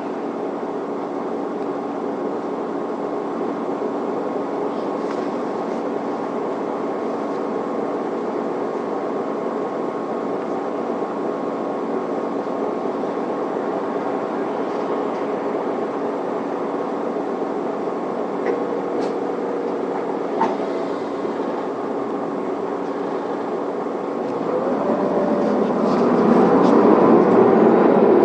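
Isuzu Elga city bus heard from inside the cabin while under way: its diesel engine and drivetrain hum steadily over road noise, with a couple of faint clicks near the middle. The sound grows louder and fuller near the end.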